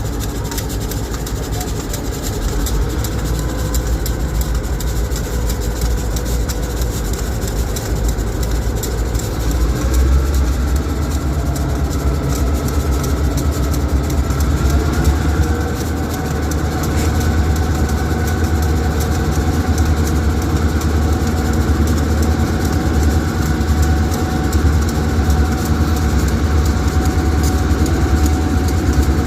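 Diesel freight locomotive engine running, then throttling up: its low rumble grows louder about ten seconds in and its pitch rises again around fifteen seconds as the locomotive powers up to pull out, then holds steady.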